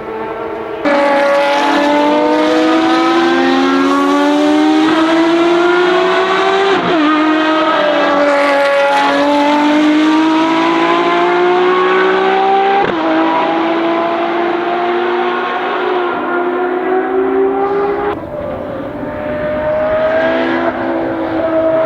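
Ferrari FXX Evo's V12 racing engine under hard acceleration. Its pitch climbs steadily and drops sharply at each upshift, several times over. It gets suddenly louder about a second in, and briefly quieter near the end before climbing again.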